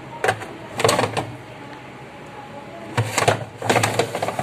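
Plastic refrigerator trays or a crisper drawer being handled and slid, rattling and clicking in four short bursts.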